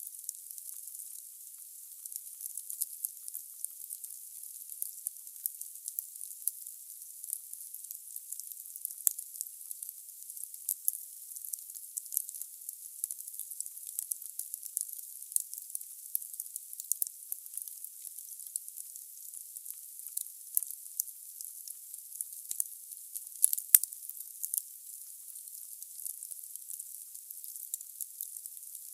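Wood fire crackling in a fireplace: a steady high-pitched hiss with many sharp pops and snaps from the burning logs, one pop clearly louder about four-fifths of the way through.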